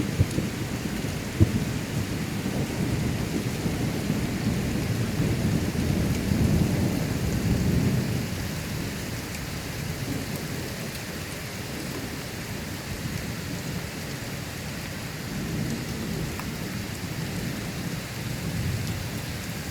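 Steady rain falling during a thunderstorm, with thunder rumbling low underneath. The rumble swells about six seconds in, then eases off, and a sharp tap comes through about a second in.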